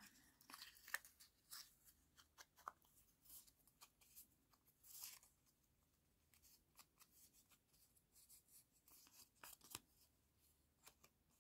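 Near silence with faint, scattered scratches and taps of blue ink being worked over paper.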